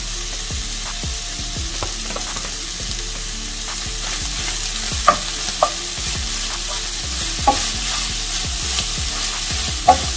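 Ground chicken and diced vegetables sizzling steadily in a frying pan. From about four seconds in, a wooden spoon stirs and scrapes through the mixture, knocking sharply against the pan four times.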